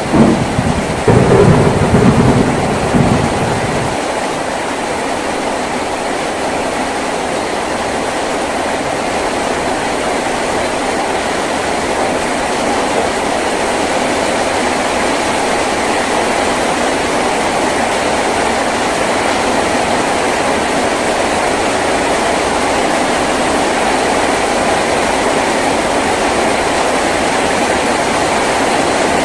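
Heavy rain drumming steadily on a tin roof. A low rumble of thunder in the first few seconds dies away about four seconds in, leaving the rain alone.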